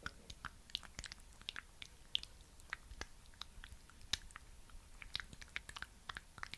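Close-miked sticky, wet clicks and crackles of a thick skin-care product being worked, coming irregularly several times a second.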